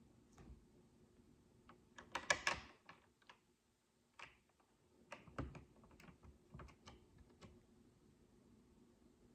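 Micro building bricks of small plastic being handled and clicked together: a quick cluster of sharp clicks and rattles about two seconds in, then scattered single clicks.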